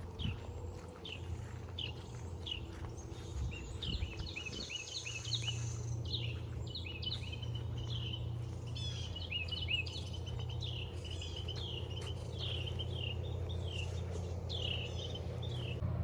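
Birds chirping outdoors in the early morning: many short, quick calls, growing busier a few seconds in, over a steady low hum.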